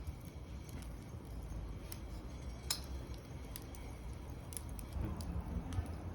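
Wood fire in a fire stand crackling, with scattered sharp pops over a low steady rumble.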